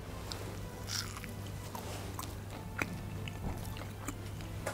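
A person biting into and chewing a piece of breaded crocodile schnitzel, with a few faint, sparse crunches.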